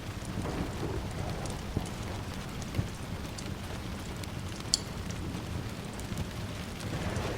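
Steady rain with a low rumble of distant thunder underneath, and a few sharp pops of a crackling wood fire, the loudest nearly five seconds in.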